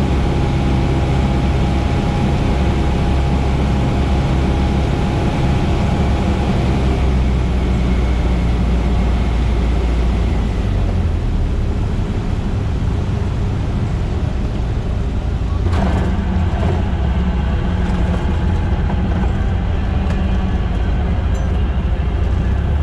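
Cessna 150's Continental O-200 four-cylinder piston engine running steadily, with one short click about sixteen seconds in.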